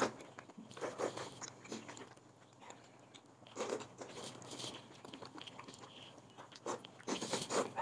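A person chewing and eating, with scattered light clicks; the sounds grow louder near the end.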